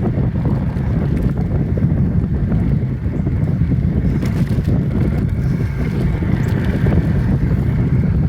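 Wind buffeting a phone's microphone on a moving bicycle: a steady low rumble.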